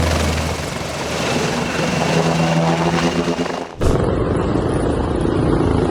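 Helicopter engine and rotor running: a steady pitched drone under rushing noise. About four seconds in it cuts abruptly to a different, noisier recording.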